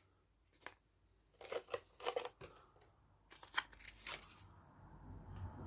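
Old adhesive tape on a bicycle frame being handled and peeled: a few short, scattered crackly snips and rustles, with a faint low hum near the end.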